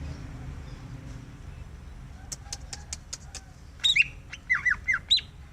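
Greater green leafbird (cucak ijo) calling: a quick run of about six sharp clicking ticks (ngetrok), then a few short, loud whistled notes sweeping up and down in pitch. Such clicking and harsh calls on being approached are typical of a leafbird whose spirit is recovering.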